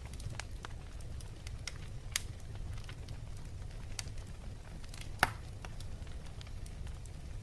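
Wood fire crackling in a fireplace: scattered small snaps over a steady low noise, with two louder pops, one about two seconds in and a sharper one just past five seconds.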